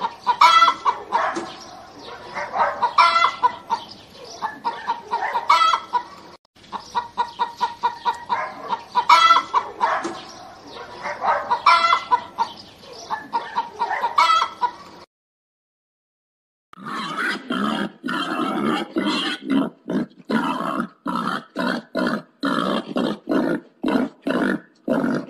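Chickens clucking rapidly, a rooster and hens together, with a louder call standing out every few seconds. About fifteen seconds in the sound cuts out briefly, and a pig then grunts in a steady rhythm of about two grunts a second.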